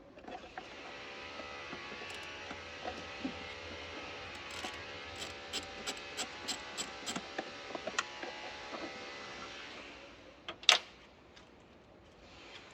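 Mechanical work sounds over a steady hum: a run of about ten evenly spaced sharp clicks, roughly three a second, in the middle, then one loud sharp click near the end.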